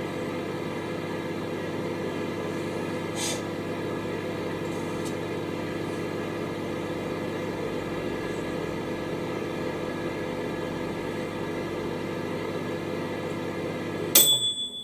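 Microwave oven running steadily on a 2-minute cycle, heating a sealed bag of compost to sterilise it. Near the end the hum stops as the timer runs out and a short high beep sounds.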